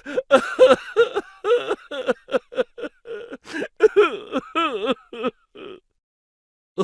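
A voice making rapid short bursts with wavering, wobbling pitch, like laughing, for about five seconds, then stopping.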